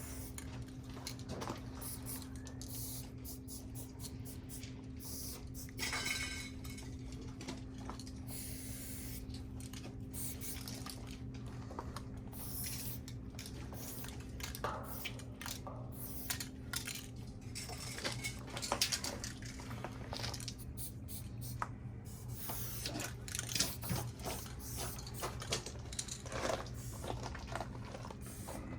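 Aerosol spray paint cans hissing in many short bursts, with light metallic clinks, over a steady low hum.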